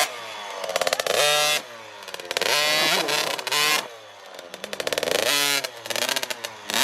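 Dirt bike engine revving up and falling back several times, in repeated bursts of throttle.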